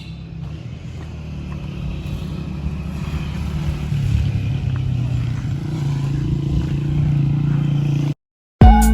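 Motorcycle engine running under way on a rough road, a steady low rumble that grows slowly louder over the first few seconds and then holds. It cuts off suddenly near the end.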